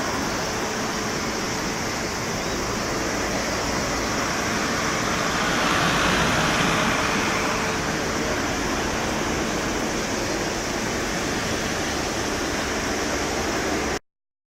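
Steady rushing noise of a jet airliner's engines mixed with wind, swelling about six seconds in with a faint steady whine, then cutting off abruptly near the end.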